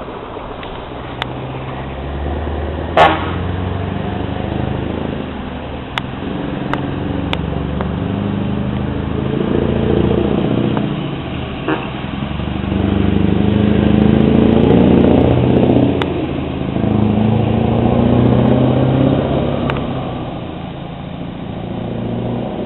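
Scania 164-580 truck's V8 diesel engine running and revving, its pitch swelling up and down twice. There is a short, sharp blast about three seconds in.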